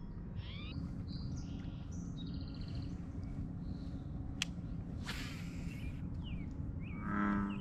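Small birds chirping and calling over a steady low background rumble. About halfway through there is a sharp click and then a short hiss. A low, pitched call starts near the end.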